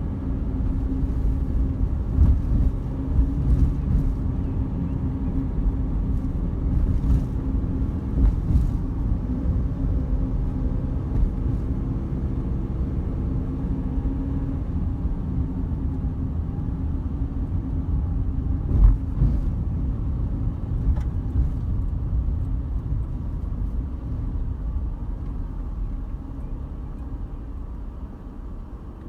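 Car driving along a forest road: steady low engine and road rumble with scattered knocks from bumps, one sharper jolt about two-thirds of the way through, easing off near the end.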